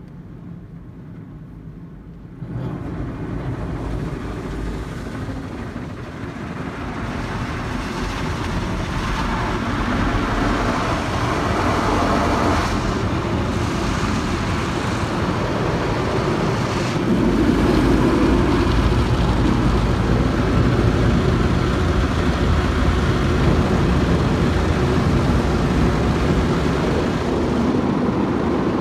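Automatic car wash running: a steady rush of spray and machinery with a low rumble. It starts suddenly about two and a half seconds in and gets louder past the middle.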